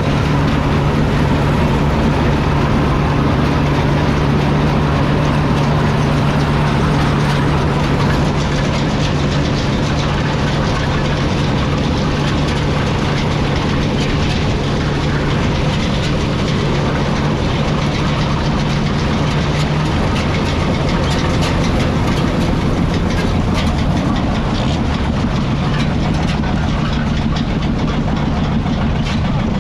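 A 1955 Field Marshall Series 3 single-cylinder two-stroke diesel tractor running steadily with a Marshall 626 trailed combine harvester at work: a constant engine drone under a continuous mechanical rattle that grows busier after a few seconds.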